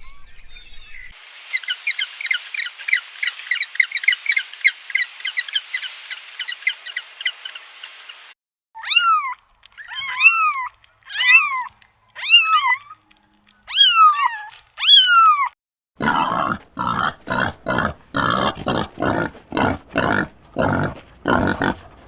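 Three different animal calls in turn: a fast, high chattering of chirps, then six separate pitched calls that rise and fall, then a rasping series of grunts at about two a second.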